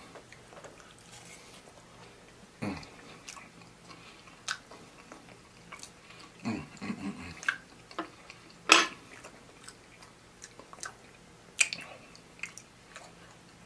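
Close-up chewing of a mouthful of loaded fries, with wet mouth smacks and scattered clicks; a sharp click about nine seconds in is the loudest sound.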